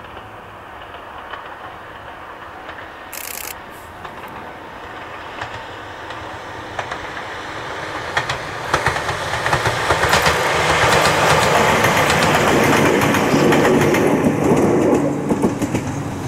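Ohmi Railway 800-series electric train (set 805F) approaching and passing, its wheels clattering over the rail joints. It grows steadily louder, is loudest from about ten seconds in, and eases off slightly near the end.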